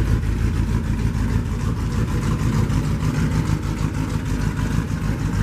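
Small-block Chevy V8 idling steadily through a dual exhaust whose two pipes exit on the same side.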